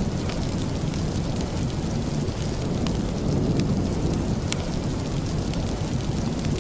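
Steady rain with a deep low rumble under it, and a few sharp crackles of a wood fire now and then.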